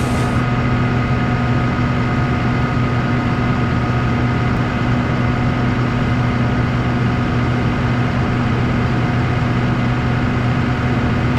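Heavy engine running steadily at a constant speed, with a low, even hum and a few fixed higher tones above it.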